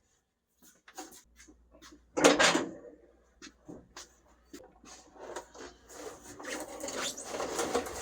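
Hand tools and metal parts being handled: scattered clicks and knocks, a louder clatter about two seconds in, and a run of scraping and rustling in the second half.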